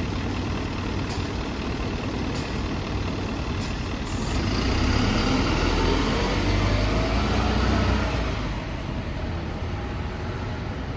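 City bus diesel engine running, its revs and level rising from about four seconds in with a climbing whine, then easing back down after about eight seconds.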